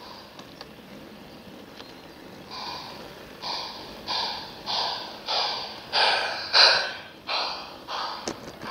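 LGB garden-scale model steam locomotive's sound unit chuffing in an even rhythm, about one and a half chuffs a second, growing louder and then easing off as the train passes close by.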